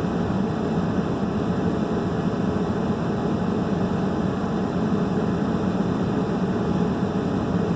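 Heater fan blowing steadily: an even, unbroken rush of air with a low hum underneath.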